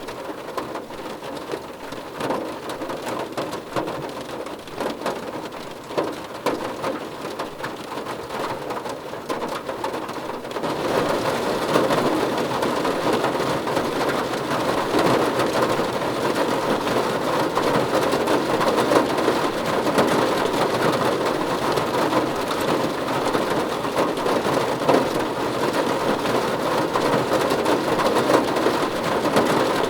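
Rain falling on a car roof: a dense, steady patter of drops that gets heavier and louder about a third of the way in.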